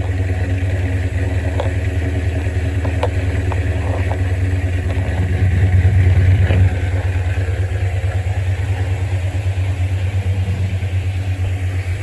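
Car engine idling with a steady low rumble, growing louder for about a second past the middle before settling back.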